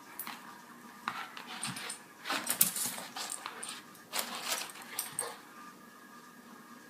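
A dog making short noises among scattered rustles and clicks. The busiest stretch falls a little past the middle.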